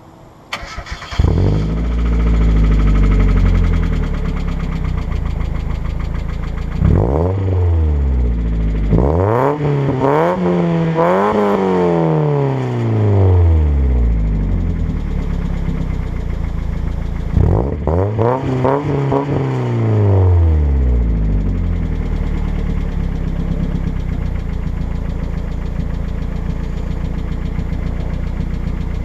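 A 1992 Mazda Miata's 1.6-litre four-cylinder engine, breathing through an unbaffled RoadsterSport 3 catback exhaust, starts about a second in, flares up and settles to idle, then is revved: a single rev, a quick string of throttle blips, and another rev, before idling again. The idle carries lifter tick, which the owner puts down to the engine being a bit low on oil.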